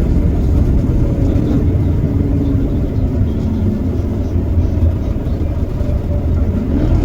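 Iveco Cursor 8 six-cylinder diesel of a Heuliez GX327 bus running under way, a heavy low rumble with a shifting engine note. Near the end the engine note climbs and grows louder as the bus pulls harder.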